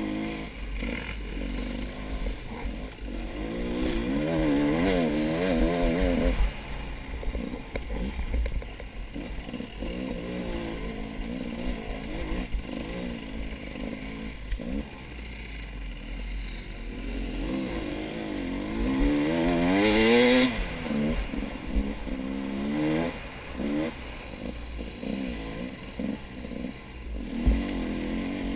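Off-road motorcycle engines revving up and down repeatedly, with the throttle blipped in waves. The loudest runs come about four to six seconds in and again around twenty seconds in.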